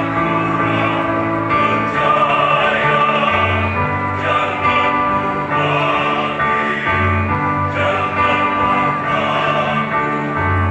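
A choir singing in harmony, holding long sustained chords.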